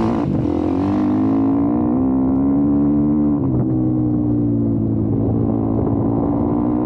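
YCF Bigy 190 Daytona pit bike's single-cylinder four-stroke engine running on the move at a fairly steady pitch, easing off at the start and dropping to a lower note about three and a half seconds in.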